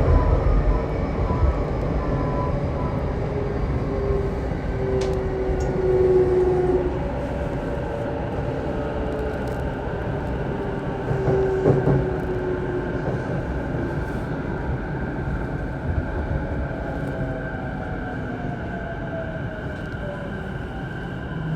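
Saikyo Line electric commuter train running, heard on board: a steady rumble of wheels on rail with the electric motor whine. Several whining tones fall slowly in pitch, and the rumble swells louder twice.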